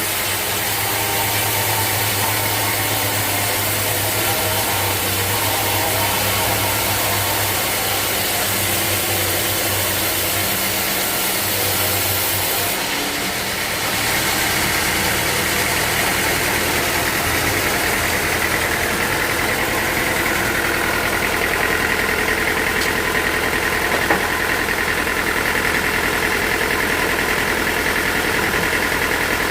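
Sawmill machinery running steadily. A low hum drops away and the sound changes about 13 seconds in.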